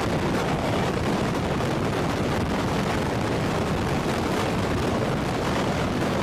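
Heavy-lift helicopter running: a loud, steady rumble of turbine and rotor noise.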